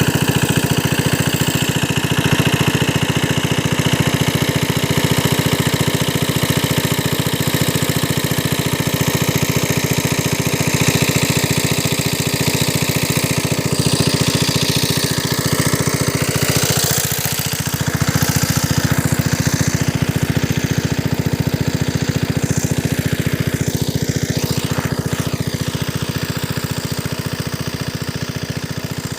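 An old, damaged water-pump engine running steadily under load, with a brief dip in loudness a little past halfway.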